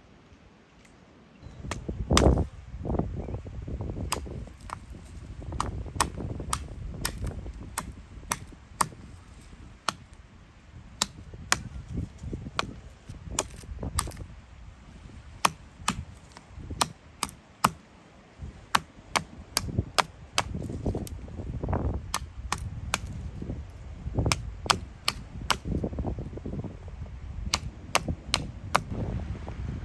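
Repeated sharp cracks and knocks, irregular and roughly one or two a second, over a low rumbling background, like wood being worked by hand.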